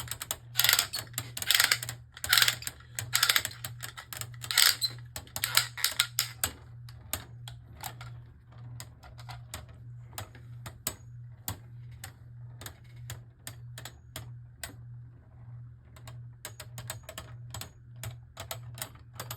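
Two Beyblade Burst tops, Orichalcum and Drain Fafnir, spinning and colliding in a plastic stadium: loud clacking hits come thick and fast for the first five seconds, then give way to fainter, scattered clicks as the tops keep knocking. A steady low hum runs underneath.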